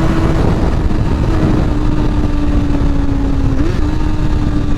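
Honda CBR sport motorcycle cruising at steady throttle, its engine note sagging slightly, with a brief rise in pitch about three and a half seconds in. Heavy wind rush on the helmet microphone.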